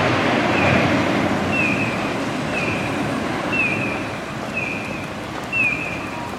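Running rumble of a departing Toyama Chihō Railway 7000-series tram, slowly fading as it pulls away. A short high chirp repeats about once a second, typical of a street-crossing signal.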